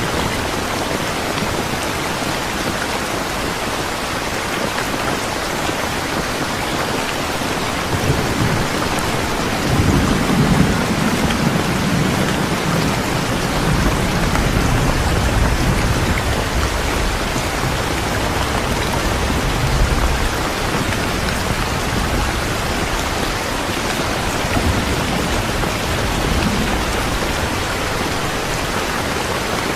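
Steady, loud rainfall hissing throughout, with a low rumble of thunder rolling in about eight seconds in, at its strongest a couple of seconds later and dying away by about twenty seconds.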